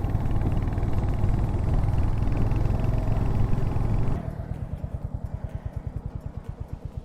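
Royal Enfield Hunter 350's single-cylinder engine running on the move with wind noise, then, about four seconds in, dropping to idle with an even beat of about eight exhaust pulses a second as the bike comes to a stop.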